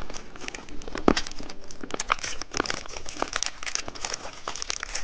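Plastic candy wrapper being handled and crinkled, a dense run of irregular crackles.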